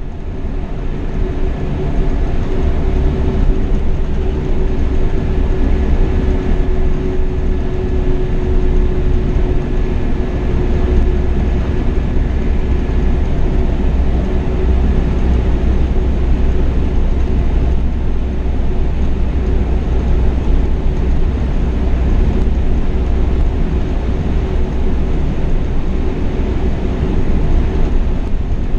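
Scania K420 double-decker coach cruising at steady speed, heard from the driver's seat: a continuous low rumble of engine and tyres with a faint steady whine above it.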